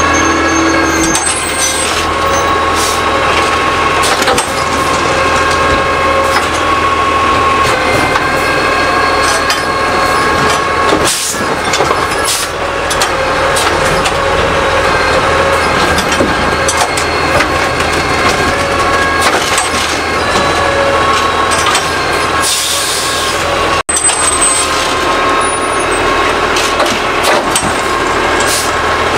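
Curbtender garbage truck working a collection stop: engine and hydraulics running with a steady whine, and scattered clanks and knocks. Near the end there is a short hiss of air.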